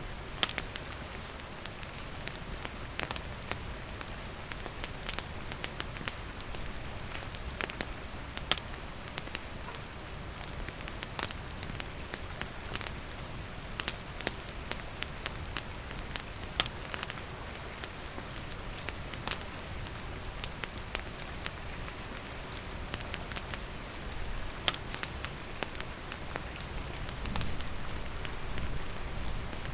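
Steady rain falling, mixed with the crackle of a wood campfire: frequent sharp pops and clicks over an even hiss.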